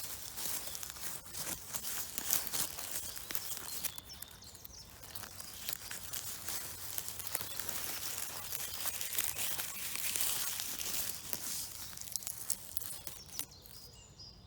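Dry forest-floor debris such as twigs, bark and leaf litter crackling and rustling as it is handled close to the microphone. It opens with sharp clicks and snaps, becomes a softer, steadier rustle, and fades near the end.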